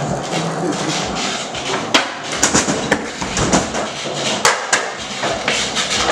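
Skateboard on a hard basement floor: wheels rolling, with a string of sharp wooden clacks as the board's tail pops and the deck slaps down and clatters. The clacks are irregular, mostly from about two seconds in.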